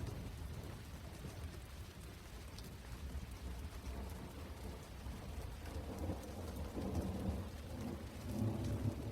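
Steady rain falling, with fine patter of drops over a low rumble that swells twice in the second half.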